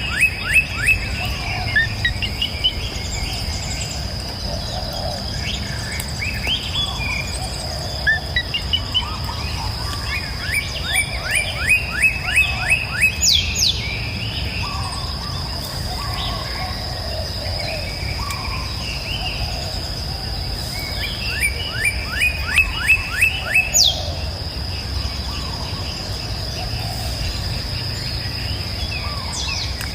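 Songbird singing phrases of about ten quick, repeated down-slurred notes, three times, each about ten seconds apart, with scattered softer chirps between. Under it are a steady high-pitched insect drone and the low rush of a river.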